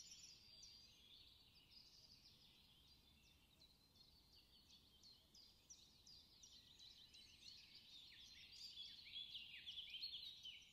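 Faint birdsong: many short, quick chirps sliding downward in pitch, busiest and loudest near the end.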